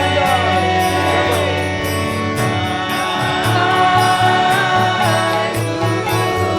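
Kirtan music: a mantra chanted in song over sustained instrumental tones and steady percussion.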